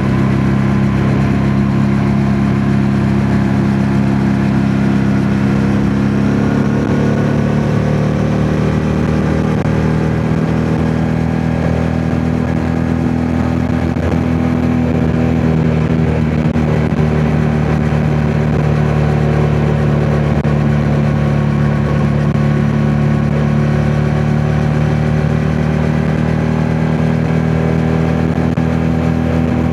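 Yamaha MT-07's parallel-twin engine running steadily under way, its pitch shifting slightly now and then.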